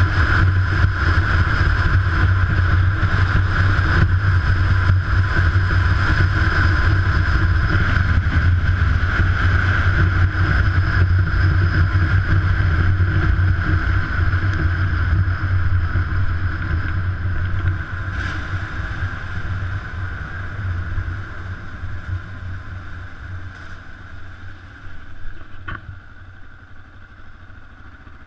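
Kawasaki KLR650's single-cylinder four-stroke engine running at a steady cruise along with wind rush. Over the last ten seconds or so the sound grows steadily quieter as the bike slows.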